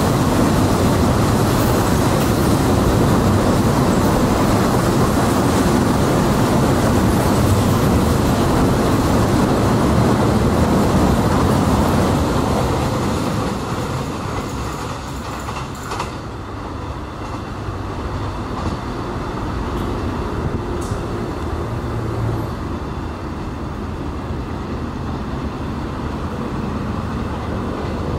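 Container freight train rolling past on flat wagons, wheels rumbling and clacking over the rail joints. About halfway through, the sound drops off as the last wagons pass and the train moves away.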